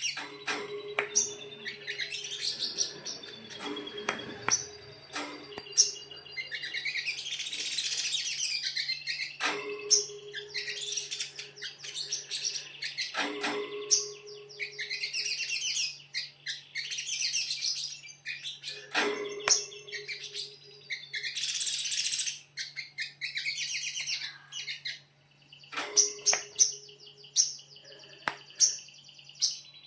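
Little spiderhunter (sogok ontong) singing in rapid, chattering bursts of high chirps in the 'konslet' style, with a few sharp knocks between phrases.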